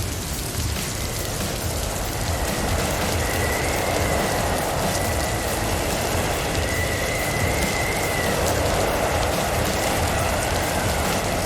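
Blizzard wind and driven snow rushing against a car, over a steady low rumble of the car on the road. A faint high whistle rises and fades a few times.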